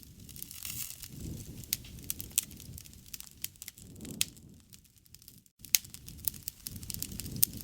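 Wood campfire crackling, with sharp pops scattered throughout over a low rumble of burning. The sound cuts out for an instant about five and a half seconds in.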